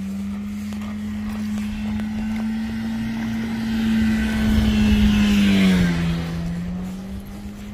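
A car driving past, growing louder to a peak about five seconds in, then its engine pitch dropping as it goes by and fades.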